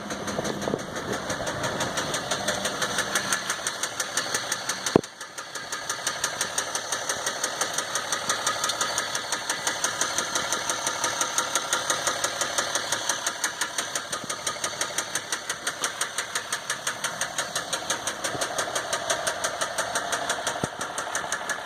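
2015 EcoDiesel 3.0-litre V6 turbodiesel running with a steady, rapid, rhythmic knock. The engine has covered only 18,000 miles, and the knock came on with a loss of power and no check-engine light. A single sharp click sounds about five seconds in.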